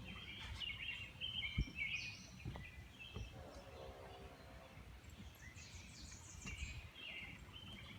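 Several small birds chirping and calling in short, scattered notes, with a few low thumps.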